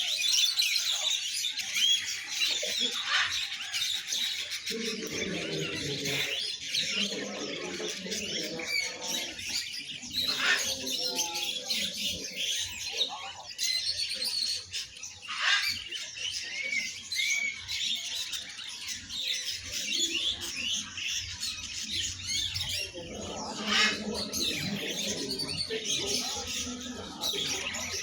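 Many caged songbirds chirping and singing at once in a dense, continuous chatter, with people's voices murmuring underneath at times.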